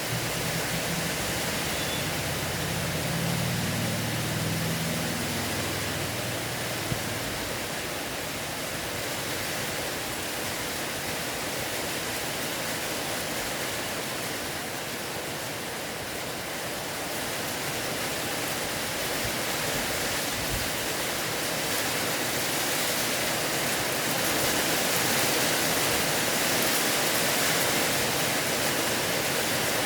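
Rain falling, a steady hiss that grows somewhat louder in the last third.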